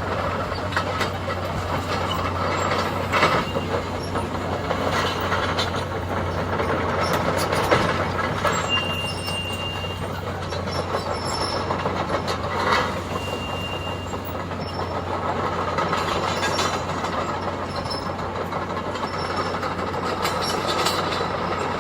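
Demolition excavator's diesel engine running steadily as it tears down a building, with several crashes and clanks of breaking debris and metal, and two short high-pitched metal squeals.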